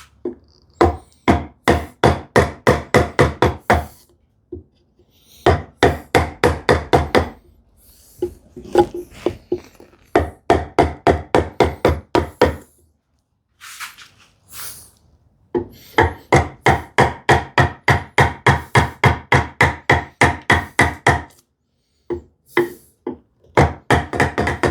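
Mallet striking a chisel in quick, even taps, about four a second, as it chops into sapele hardwood. The taps come in runs of a few seconds with short pauses between them, and each one has a short wooden ring.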